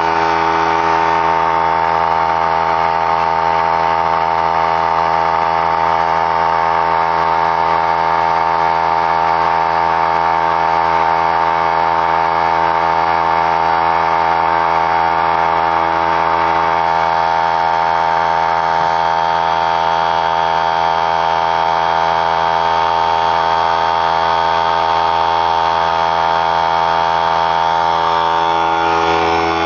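A new 3-gallon pancake oilless air compressor running steadily and loudly right after switch-on, its motor and pump giving a constant hum with many steady tones. Its tank drain valve is left open, so air is let out while it runs.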